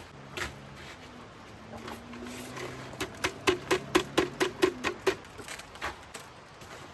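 A quick run of about a dozen sharp knocks, roughly five a second, each with a short ring, starting about three seconds in and stopping about two seconds later, with a few single knocks before and after.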